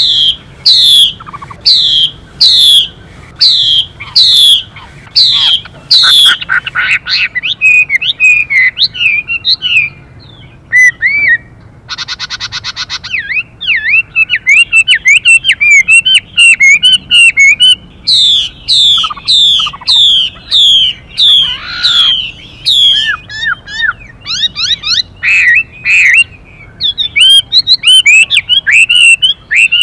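Chinese hwamei singing loudly: a series of falling whistled notes, about two a second, alternating with fast, varied warbling phrases. A short harsh buzzing note comes a bit before the middle, which fits the female's 'xùy' call.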